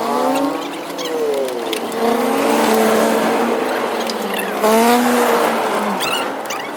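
A motor revving up and back down several times, its pitch rising and falling.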